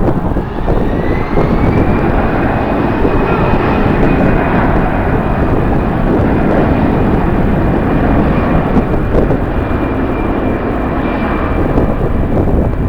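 Jet airliner engines spooling up, a rising turbine whine that levels off after about two seconds and holds, over a heavy steady rumble.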